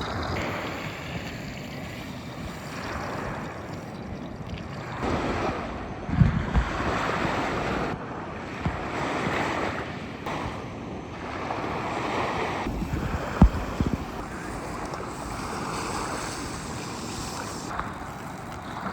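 Small waves washing on a lake shore with wind blowing across the microphone, the wash swelling and easing, and two sharp low wind thumps on the microphone about six and thirteen seconds in.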